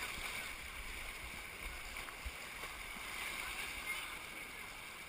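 Steady rush of shallow creek water over rocks while running a small rapid, with a light knock a little over two seconds in.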